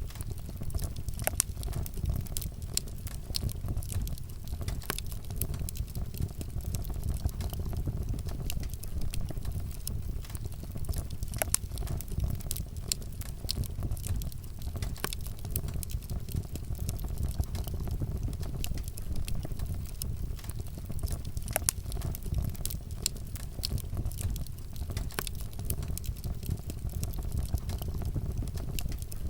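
Wood fire burning, with frequent sharp, irregular crackles and pops over a steady low rumble.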